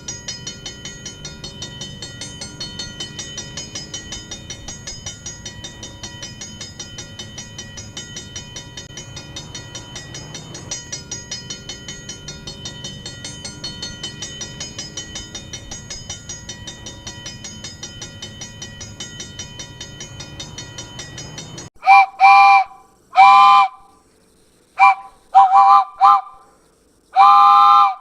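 A train running with a fast rhythmic clatter, about four beats a second. About three-quarters of the way through it cuts off, and a train whistle sounds a series of loud chord blasts, some short and some longer.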